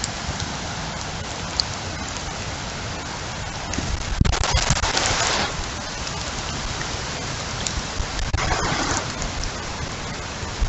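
Heavy rain pouring down during a windstorm, a steady hiss with scattered drop ticks and a low rumble. It swells twice in louder surges, about four seconds in and again about eight seconds in.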